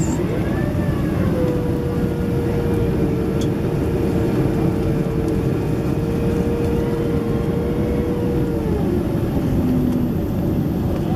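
Steady low rush of cabin noise inside a Boeing 767-300ER airliner in flight. A steady tone is held over it for about seven seconds, starting about a second in.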